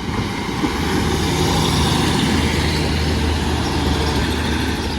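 Class 150 Sprinter diesel multiple unit passing over a level crossing. Its underfloor diesel engines give a steady low drone under the noise of the wheels on the rails, growing louder over the first second and then holding.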